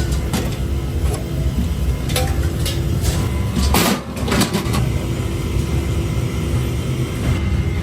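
Workshop machinery running with a steady low rumble and hum, broken by a few sharp metal clanks and knocks, the loudest a little under four seconds in.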